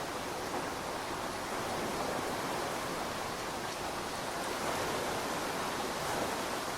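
Steady rainfall: an even hiss of falling drops that holds level throughout.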